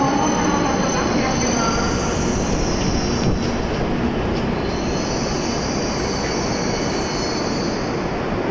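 E7 series Shinkansen train pulling into the platform and slowing to a stop: a steady rumble of wheels and running gear, with a high squeal that comes and goes twice.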